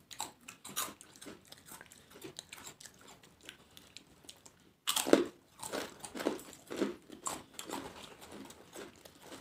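Crisp papads being bitten and chewed by two people: a run of short, dry crunches, loudest about five seconds in.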